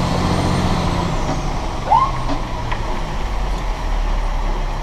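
A fire engine running, with a steady rumble and noise; a low engine hum fades after about a second. A brief rising squeak comes about two seconds in.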